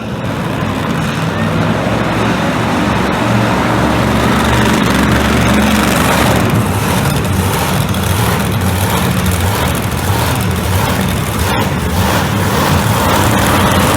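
Monster truck engine running loud and steady, heard across an arena.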